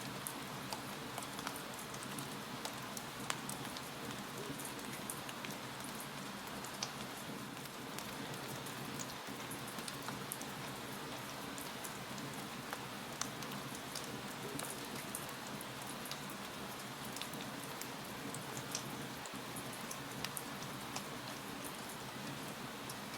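Wood fire crackling: a steady soft hiss with irregular small pops and snaps, now and then a louder pop.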